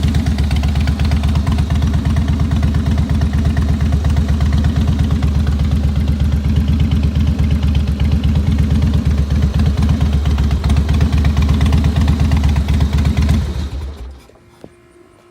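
Harley-Davidson Heritage Softail's fuel-injected V-twin engine idling steadily with an even, pulsing exhaust beat, then shut off near the end.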